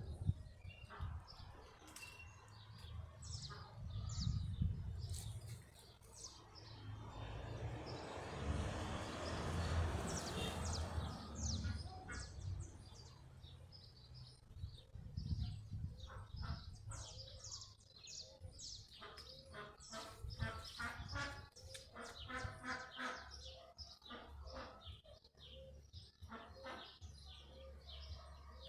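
Many small birds chirping and calling in quick, overlapping notes. A rushing noise swells and fades about eight to eleven seconds in.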